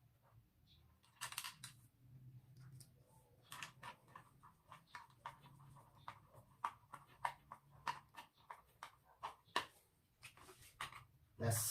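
Irregular small clicks, taps and scrapes of metal stand parts, screws and washers being handled and driven in with a screwdriver, with a faint low hum underneath.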